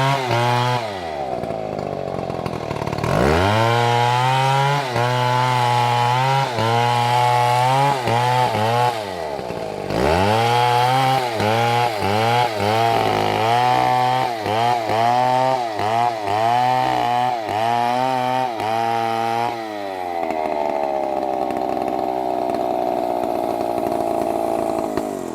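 Large two-stroke chainsaw, a Stihl MS720, revving and cutting wood. Its engine speed repeatedly sags and climbs back, with many quick dips in the middle. Near the end it settles into a steadier, slowly falling drone, then cuts off abruptly.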